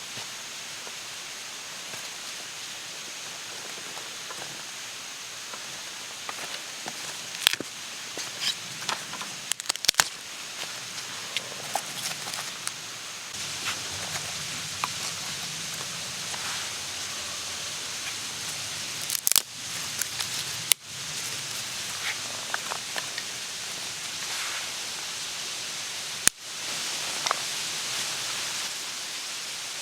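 Campfire crackling over a steady outdoor hiss, with scattered snaps and a few sharper knocks. The background changes abruptly twice near the end.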